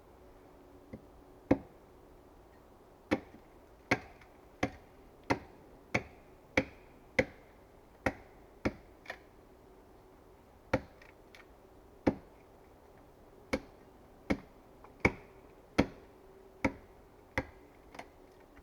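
Hand tool striking wood in a run of about twenty sharp, single knocks, roughly one or two a second, with a short pause midway.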